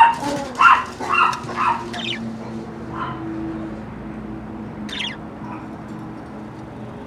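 Budgies squawking and chirping: a quick run of short calls in the first two seconds, then a few scattered calls, over a steady low hum.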